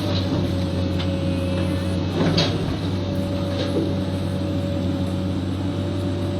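Komatsu long-arm excavator's engine running steadily, with a thin steady whine above the drone and a single knock about two seconds in.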